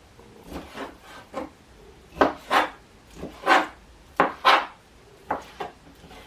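Knife cutting raw chicken breast into chunks on a cutting board: a run of irregular short scraping strokes, several in quick pairs, loudest around the middle.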